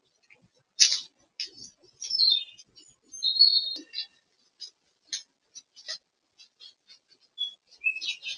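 Woodland birds calling: scattered short, high chirps and brief whistled notes, the loudest about a second in.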